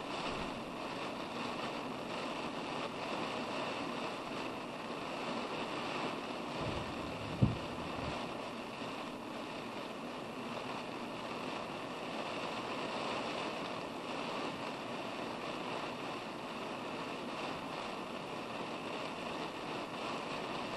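Heavy rain pouring down steadily, heard from inside a car, with one short sharp thump about seven seconds in.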